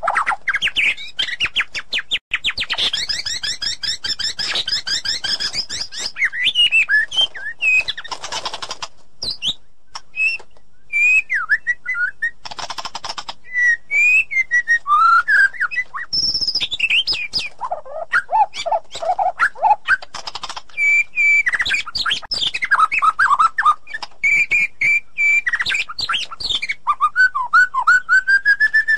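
White-rumped shama singing a long, varied song of loud, clear whistles, rapid trills and fast repeated notes, changing phrase every second or two.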